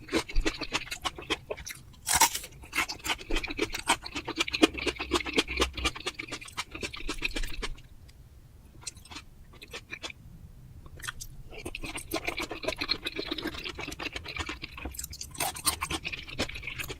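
Close-miked chewing of raw hamachi (yellowtail), a dense run of small mouth clicks. It drops to quiet for a few seconds in the middle, then the chewing starts again.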